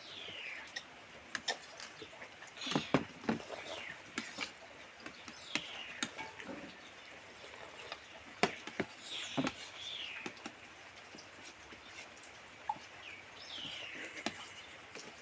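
Eating noises from a speed-eating race of instant noodles and eggs: chewing and slurping, with short falling swishes and scattered sharp clicks.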